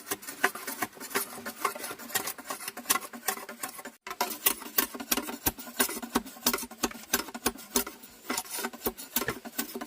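Rapid, irregular clicking and tapping, several sharp clicks a second, briefly cut off about four seconds in.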